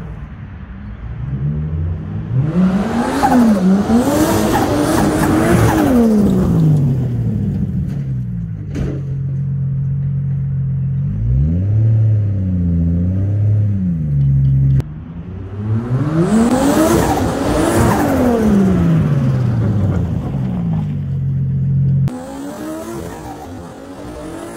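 Turbocharged RB30ET straight-six of an R31 Skyline wagon revving hard and falling back again and again while the car slides and spins its tyres on dirt. There are two long rev bouts and a shorter one between, with abrupt cuts in the sound.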